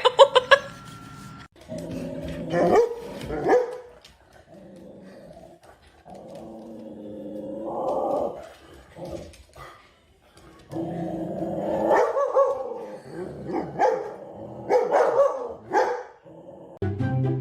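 A dog barking and growling in short bursts, with a longer drawn-out call about seven to nine seconds in.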